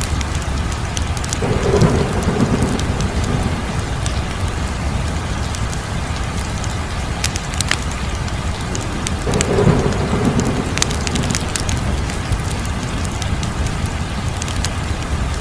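Wood fire crackling, with scattered sharp pops over a steady rushing hiss that swells twice, about a second and a half in and again about nine seconds in.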